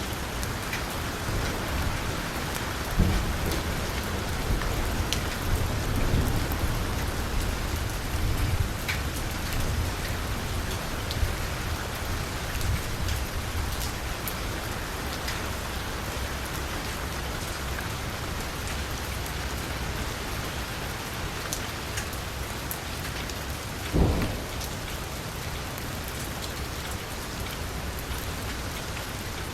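Heavy rain drumming on a car's window and roof: a steady hiss with sharp individual drop hits. A low rumble runs through the first several seconds, and there is a single louder thud about 24 seconds in.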